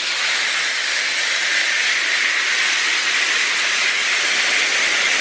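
Washworld High Velocity touchless car wash spraying the car: a steady hiss of water jets.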